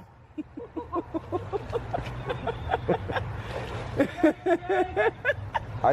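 Indistinct voices talking over a steady low hum.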